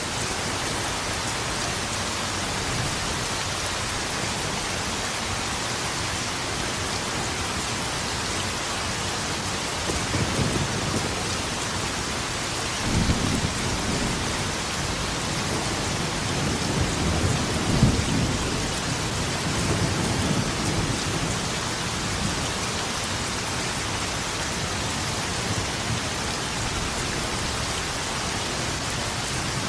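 Steady heavy rain hissing, with thunder rumbling in from about ten seconds in: a sharper crack near thirteen seconds, a rolling peak around eighteen seconds, then dying away.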